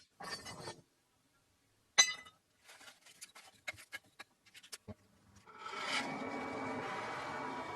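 Metalworking sounds: a short scrape, a sharp clink about two seconds in, a run of light irregular ticks, then steady rubbing or scraping from about halfway on.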